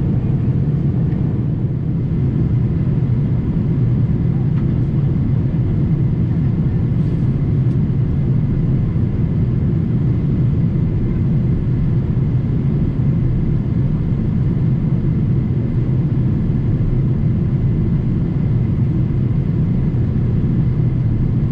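Steady in-flight cabin noise of a Boeing 787-8 Dreamliner powered by General Electric engines: an even, low rumble that does not change.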